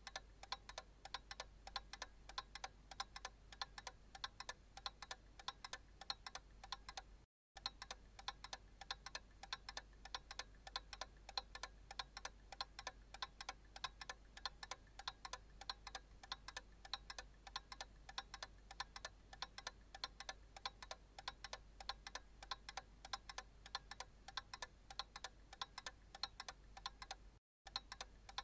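Analog clock ticking faintly in a fast, even rhythm. The ticking cuts out to silence for a split second twice: about seven seconds in and again near the end.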